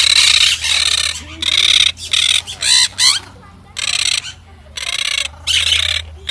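Large parrots screeching: a run of about eight harsh, loud squawks, each around half a second long, coming in quick succession.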